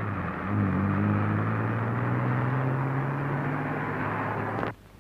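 Car engine running steadily with a low hum and a haze of road noise; it cuts off abruptly shortly before the end.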